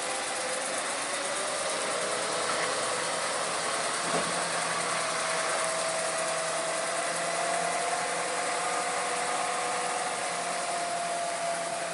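Heavy truck engine pulling hard on a steep climb, with a whine that rises slightly in pitch and then holds steady. A single knock about four seconds in.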